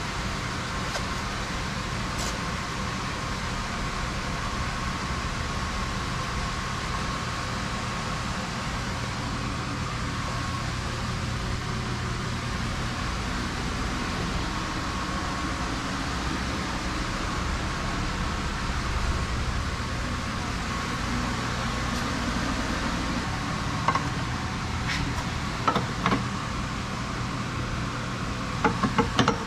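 A steady mechanical hum, like a fan or a running engine, with a few short light knocks near the end.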